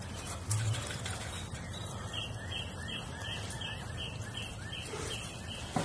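A bird calling repeatedly, about ten short high chirps at roughly three a second, over a steady outdoor hiss, with a brief thump near the start and another near the end.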